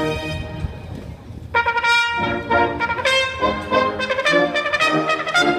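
Solo trumpet playing a quick run of short, detached notes, entering about a second and a half in as the band's held chord fades away.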